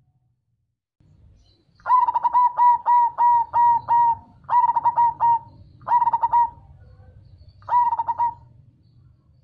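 Zebra dove (perkutut) singing its cooing song: a quick run of about seven hooked coo notes starting about two seconds in, followed by three shorter groups of notes with brief pauses between them.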